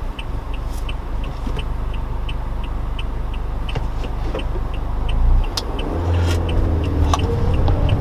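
Inside the cabin of a 2014 Toyota Corolla, a turn signal ticks steadily about three times a second over the low hum of the idling car. About six seconds in, the engine note rises as the car pulls away.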